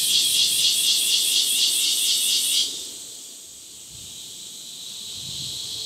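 Insects calling: a loud, high, pulsing song at about four pulses a second that cuts off about two and a half seconds in, leaving a fainter, steady high insect drone.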